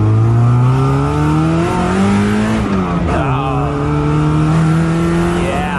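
Mazda Miata's four-cylinder engine accelerating hard on nitrous, heard from inside the car. Its pitch rises, drops at a gear change about three seconds in, then rises again.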